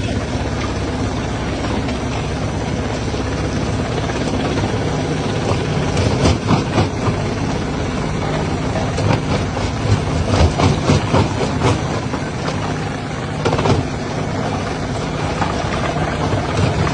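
Jaw crusher running with a steady low machine drone, with clusters of sharp knocks and cracks about six seconds in, again from about ten to twelve seconds, and once more near thirteen and a half seconds as stone is broken.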